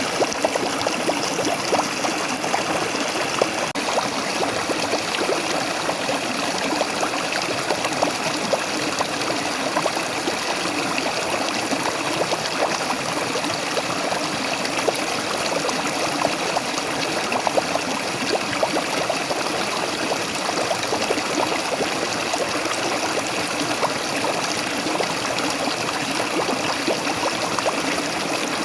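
Waterfall: falling water rushing and splashing steadily, an even rush dotted with many small splashes.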